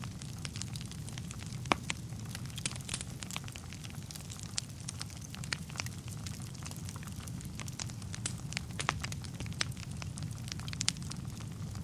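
Wood fire burning in a fireplace: a steady low rumble of flames under frequent irregular crackles and pops, the sharpest pop a little under two seconds in.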